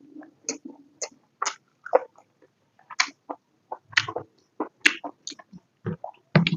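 Close-up chewing and mouth sounds while eating pork and potato curry: irregular wet smacks and clicks, a few a second.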